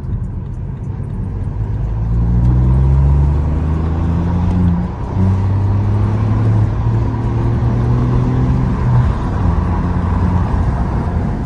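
BMW F21 1 Series with a loud, deep exhaust accelerating hard: the engine note climbs, dips briefly about five seconds in at a gear change, climbs again, and drops at another shift near nine seconds.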